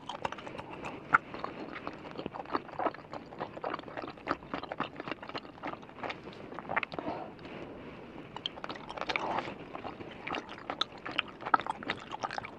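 Close-up chewing of mango-flavoured gummy candy, with many small irregular mouth clicks and smacks.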